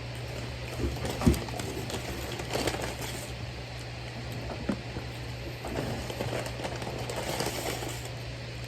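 Food packaging rustling and crinkling with small handling clicks and taps, over a steady low hum.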